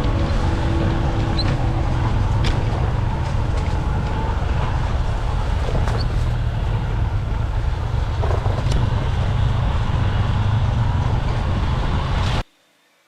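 Motorbike running on the move, its engine mixed with road and wind noise, steady and heavy in the low end; it cuts off abruptly about half a second before the end.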